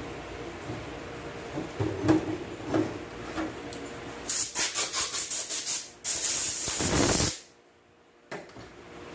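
Compressed air hissing from a blow gun: a run of quick short spurts, about seven a second, then one continuous blast of about a second that cuts off sharply. A few light knocks of parts being handled come before it, and one more near the end.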